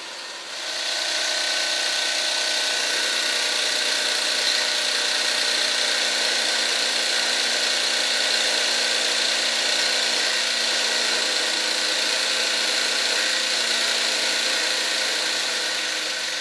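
Wilesco D18 toy live steam engine running steadily while driving the Wilesco steam workshop models, a continuous mechanical whirr that grows louder about half a second in.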